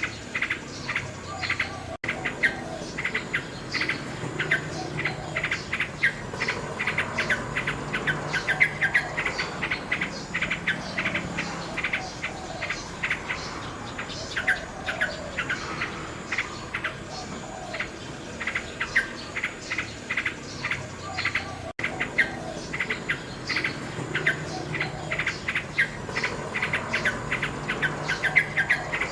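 Nightingale singing: long, rapid runs of short, sharp chirps and whistled notes repeated many times a second, with two brief dropouts in the sound.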